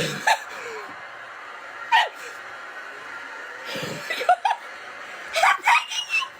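A woman screaming in excited short shrieks, some sliding upward in pitch, with the sound dropping to a hiss between them. The screams are loud enough to make the phone's recording cut out.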